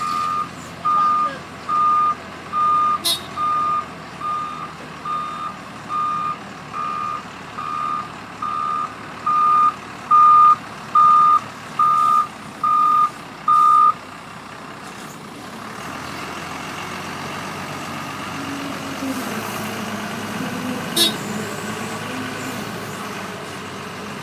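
A heavy vehicle's reversing alarm beeps steadily at a single pitch, a little more than once a second, and stops about 14 seconds in. After that, a heavy engine runs and grows louder.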